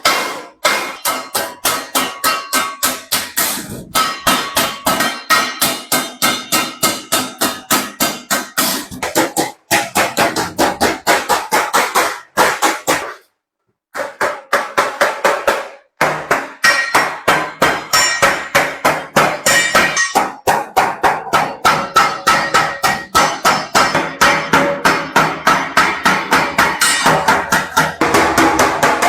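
Hammer striking a large metal basin in rapid, even blows, about three a second, the metal ringing between strikes; the blows stop briefly about thirteen seconds in.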